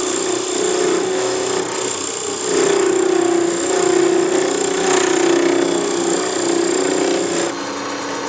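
Wood lathe running with a steady motor hum and whine while the toe of a skew chisel cuts the spinning wood with a rough scraping hiss. Near the end the cutting and the high whine stop and the sound drops, while the lathe keeps turning.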